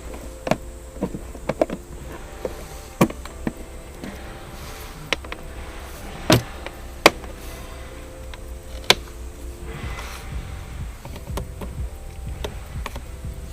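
Scattered sharp clicks and knocks, about a dozen at uneven intervals, the loudest two near the middle, over a steady low hum.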